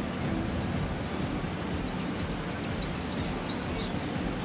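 Steady outdoor background noise on a golf course, with a small bird chirping several times in quick succession around the middle.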